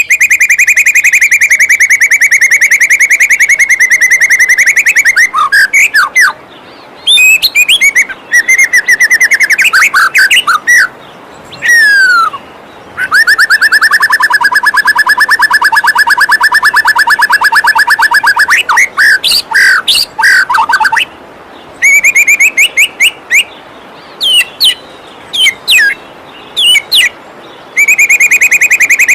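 White-rumped shama (murai batu) singing: long, fast rattling trills alternate with quick whistled and down-slurred notes. A steady rush of falling water runs underneath.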